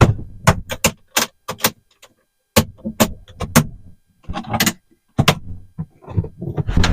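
Metal toolboxes being shifted and set into place: a string of sharp clanks and knocks in irregular clusters, with some rattling between.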